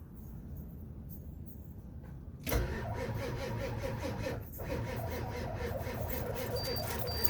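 Old Ford truck's engine cranking over on a cold start after sitting about two months, beginning suddenly about two and a half seconds in, dipping briefly near the middle and then carrying on steadily.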